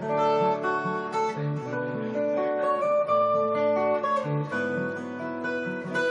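Solo acoustic guitar playing an instrumental piece, single melody notes ringing over a moving bass line.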